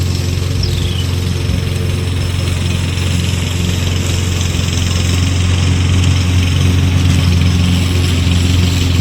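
Toro Smart Stow self-propelled gas push mower's engine running steadily, getting a little louder in the second half.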